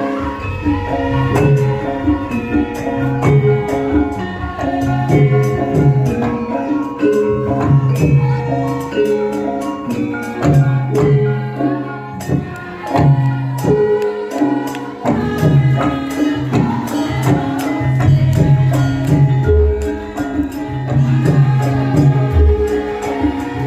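Live Javanese gamelan-style ensemble music playing at a steady pace. Pitched percussion notes repeat over a regular low drum pulse, with jingling percussion on top.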